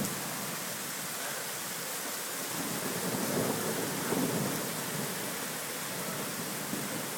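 Steady rain hissing during a thunderstorm, with a low rumble of thunder swelling about three to four seconds in.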